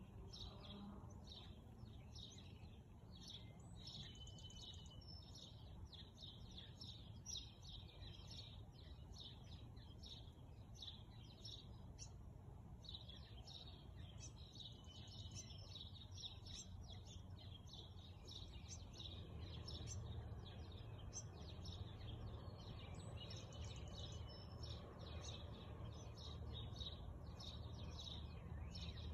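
Faint outdoor ambience: small songbirds chirping and singing many short high calls, over a low background rumble that grows a little louder about two-thirds of the way through.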